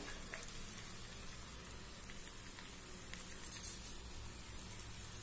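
Vegetables for shukto (drumsticks, potato, brinjal, raw banana and long beans) sizzling faintly in oil and spice paste in a karai as they are sautéed, with a few soft knocks of a wooden spatula against the pan.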